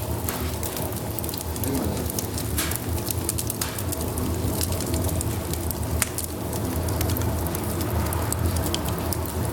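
Fire burning in a pyrolysis fireplace's firebox, with irregular sharp crackles and pops over a steady low rumble.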